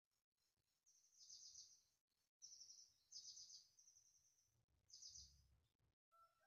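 Faint bird chirping: several short, high, rapidly pulsed chirps between about one and five seconds in.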